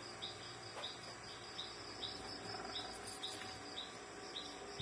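Background insects chirping: a steady pulsing high trill with a short high chirp repeating just under twice a second, plus a few faint clicks.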